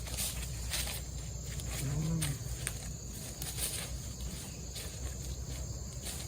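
Faint scattered clicks and rustles over a steady low hum, with a man's short low 'mm' about two seconds in.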